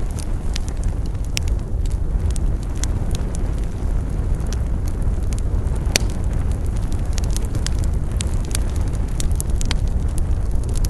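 Wood campfire burning: irregular sharp crackles and pops over a steady low rumble of the flames, with one louder pop about six seconds in.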